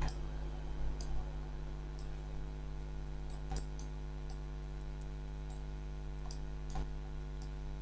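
Scattered computer mouse clicks at irregular intervals over a steady electrical hum.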